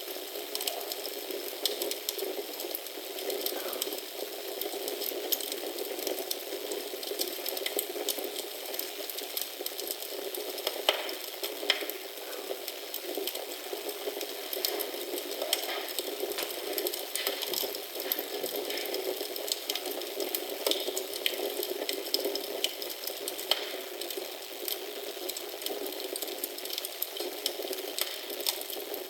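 Wood fire crackling in a fireplace: a steady hiss with many small pops scattered irregularly throughout.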